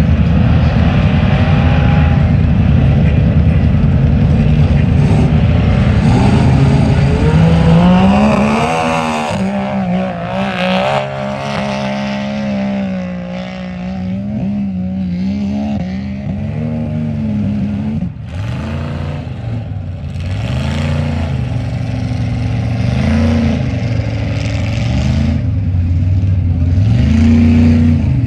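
Mud truck engine revving hard, its pitch climbing to a peak about nine seconds in, then rising and falling again and again as the throttle is worked.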